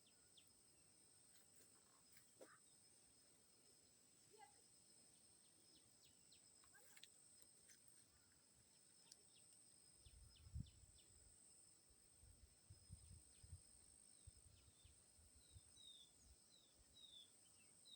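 Near silence outdoors: a faint, steady high-pitched insect drone, with scattered short chirps and a run of brief falling chirps near the end. Low thumps on the microphone come in about halfway through.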